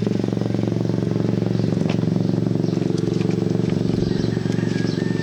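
Motorcycle engine running steadily with an even, fast pulsing beat.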